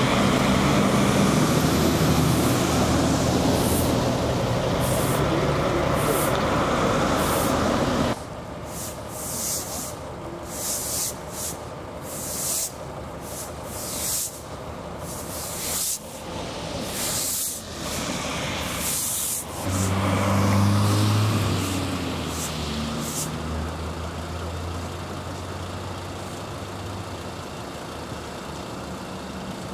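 Heavy vehicles' engines running, then after an abrupt cut a series of short, sharp hisses like air brakes being released. About twenty seconds in, a large engine revs up briefly and then drops back to a steady run.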